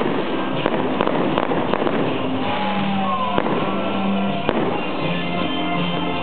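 Fireworks going off: a string of sharp bangs and crackles at irregular intervals, over music with held notes.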